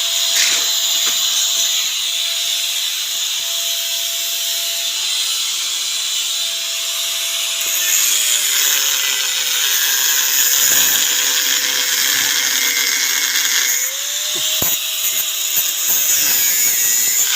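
An electric power tool running with a steady motor whine over a hiss. The whine drops in pitch about eight seconds in, rises again about fourteen seconds in and falls back shortly after, with a sharp click about fifteen seconds in.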